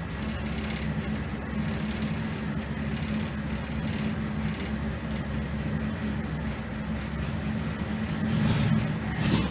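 1972 Dodge Dart's naturally aspirated V8 idling steadily with a low, even exhaust note, getting louder near the end.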